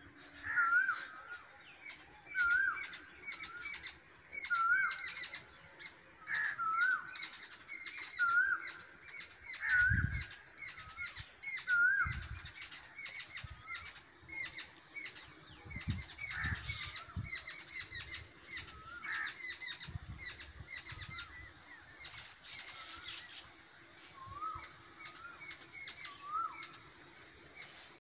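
Wild birds singing: one bird repeats a short rising-and-falling whistle, about once a second at first and more sparsely later, over a chorus of quick high chirps from other birds. A steady high tone runs underneath, with a few brief low rumbles.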